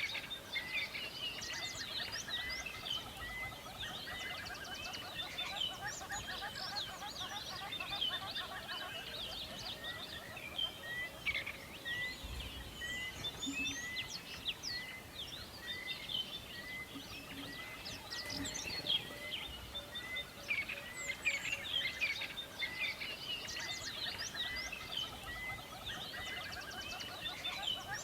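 Many forest birds singing and chirping at once, with one bird repeating the same short note over and over.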